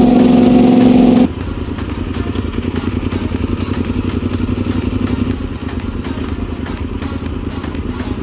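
Yamaha Super Ténéré's parallel-twin motorcycle engine running at a steady pitch. About a second in it changes abruptly to a lower, fast pulsing chug at low revs.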